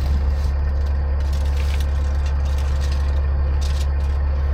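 A steady low mechanical hum, with a few light clicks and scrapes of a metal tape measure being worked against the tractor.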